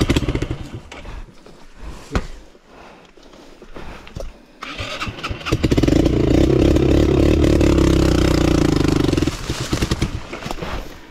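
Yamaha XTZ 125's single-cylinder four-stroke engine being turned over on its electric starter in two attempts: a short burst of cranking at the very start, then a longer one of about four seconds from a little past halfway that cuts off abruptly. The engine does not settle into running.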